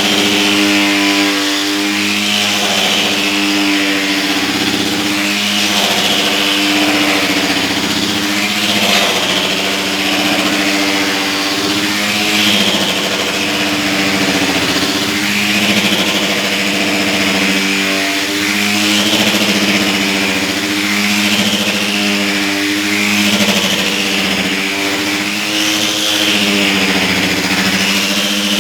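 Motor-driven dust-removal machine running steadily: a constant motor hum, with a rushing swell about every three seconds as the load turns over.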